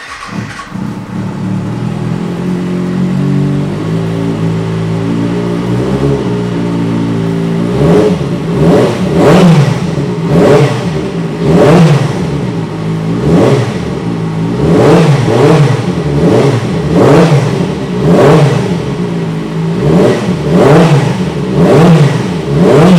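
2007 Kawasaki ZX-6R's inline-four engine, fitted with a carbon-fibre Two Brothers Racing exhaust can, starting up and idling. From about eight seconds in it is blipped repeatedly, about a dozen quick revs rising and falling roughly once a second.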